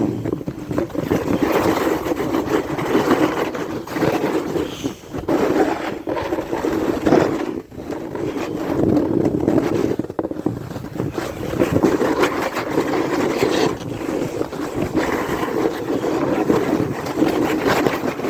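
Edges sliding and scraping over snow on a fast descent, with wind buffeting the microphone. The noise is continuous and surges and eases as the rider turns, with a few brief drops.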